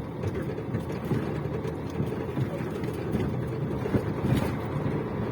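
Steady engine and road noise inside a vehicle's cab while driving.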